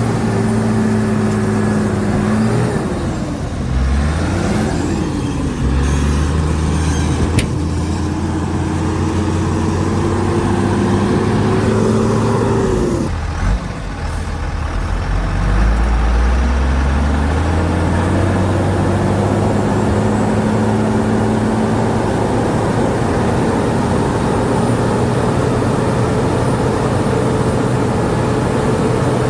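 Bulldozer diesel engine running under changing load: its pitch wavers, drops sharply about thirteen seconds in, then rises back and holds steady. A single sharp click comes about seven seconds in.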